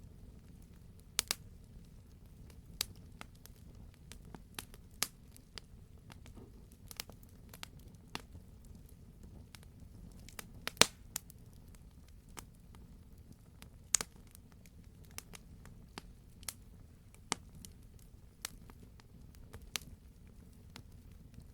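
Wood fire crackling in a fireplace: scattered sharp pops and snaps over a low, steady hiss of the flames, with the loudest pop about halfway through.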